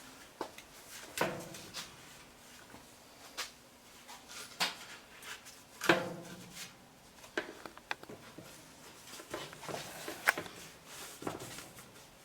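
Scattered knocks and clunks of something being handled and set against a surface, about ten separate hits at uneven spacing, the loudest about six seconds in.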